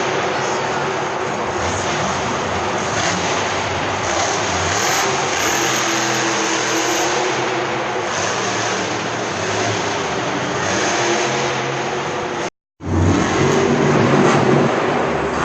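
Monster truck engine running loud and hard, a dense roar with shifting engine pitch. It cuts out to silence for an instant about twelve and a half seconds in, then returns slightly louder.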